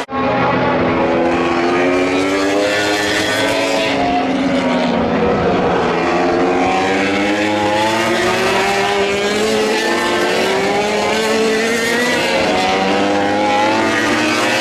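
MotoGP racing motorcycle engines at high revs, several overlapping. The main engine note drops about four seconds in, then climbs steadily again over the next few seconds.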